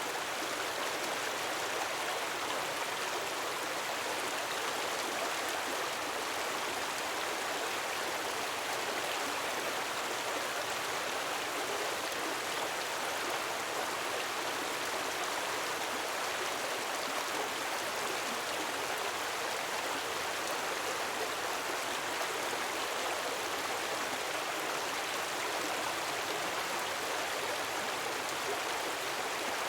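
Gentle waterfall: a steady, even rush of falling water.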